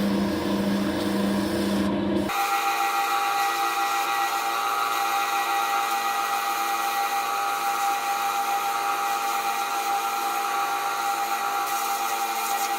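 Wood lathe running while sandpaper is held against the spinning wooden pipe handle, a steady machine whine with rubbing. About two seconds in the sound changes abruptly, losing its low hum and leaving a steadier, higher whine.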